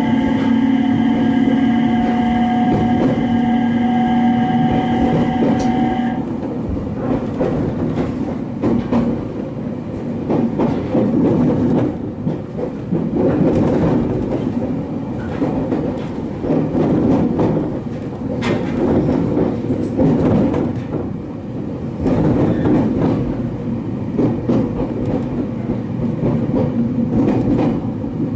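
Electric passenger train running over points and rail joints, heard from the front of the train. A steady whine of several tones stops about six seconds in, and after that the wheels clatter and knock irregularly over the switches.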